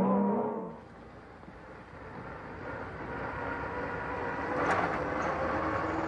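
A motorcycle engine revving high, fading away within the first second. Then a vintage car's engine running steadily and growing louder as the car approaches, with a brief sharp noise about three-quarters of the way through.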